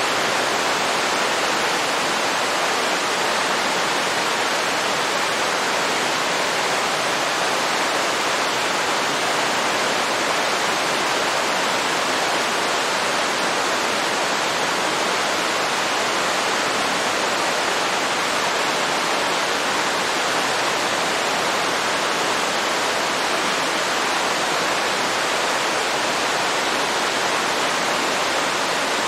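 Waterfall: steady rushing of falling water, an even hiss without changes.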